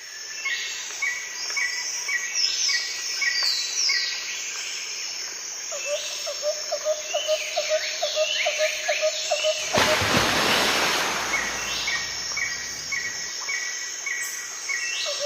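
Several birds calling: repeated short chirps and falling whistles, joined about six seconds in by a rapid pulsed trill on a lower note. About ten seconds in, a loud rushing noise takes over for a couple of seconds, then the calls go on.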